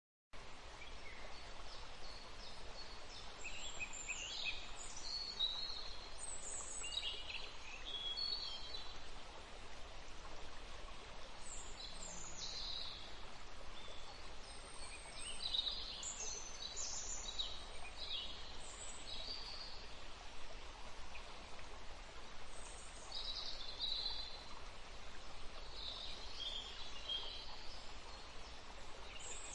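Many short bird chirps and calls over a steady background hiss, starting abruptly just after the start.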